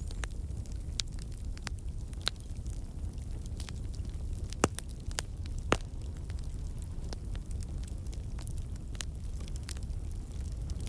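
Wood campfire burning with a steady low rumble of flame and frequent sharp crackles and pops from the logs, the two loudest pops about halfway through. The crackling comes from water and sap in the wood turning to steam and bursting out.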